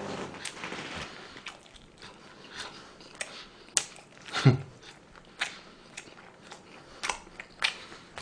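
A man chewing food close to the microphone, with frequent short wet mouth clicks and smacks. He makes a brief voiced murmur about halfway through.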